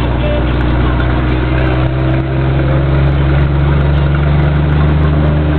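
Scania truck's diesel engine running steadily under load while climbing a mountain grade; the low engine note changes slightly about two seconds in, then holds.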